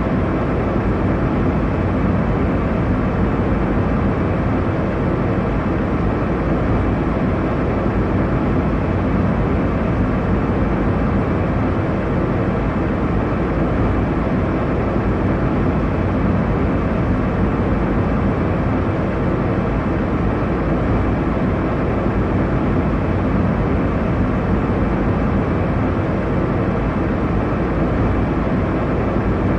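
Steady airliner cabin noise in flight: an even low rumble and rushing hiss of engines and airflow, with no changes.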